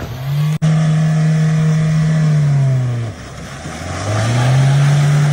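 Mahindra Thar's engine revving hard while it drives through deep mud: the revs climb and are held high, drop away about three seconds in, then climb and hold high again.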